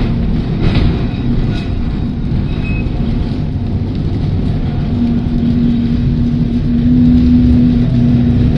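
Heritage electric tram running along the line, heard from on board: a steady low rumble of the wheels on the track, with a hum from the tram's motors coming in about halfway through and swelling for a couple of seconds.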